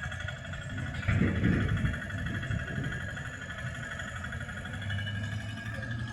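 A vehicle engine running, with a louder surge about a second in and a steady low hum near the end.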